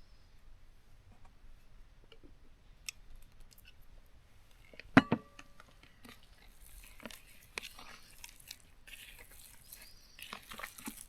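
Camp cooking gear being handled: a sharp double metallic clink about five seconds in that rings briefly, then scattered crackling and crinkling.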